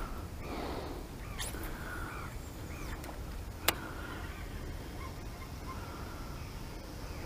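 Birds calling in short, repeated arched chirps over a steady low wind rumble on the microphone. A single sharp click comes about halfway through, and a thin steady high tone sets in during the second half.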